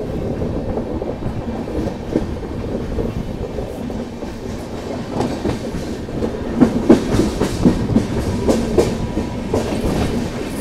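Express passenger train running over a bridge: a steady rumble of the coaches with the wheels clacking over rail joints, the clacks coming thicker and louder from about six seconds in.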